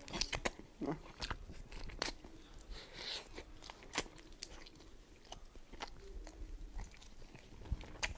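Close-up eating sounds of someone biting and chewing meat off a roasted duck leg, with sharp, irregular crunches.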